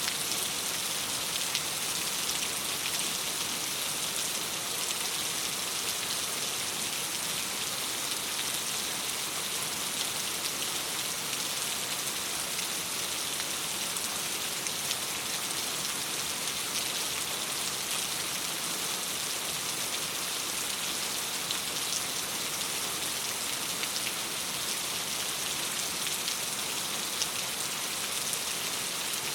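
Steady rain falling against a window: an even hiss with faint scattered ticks of drops.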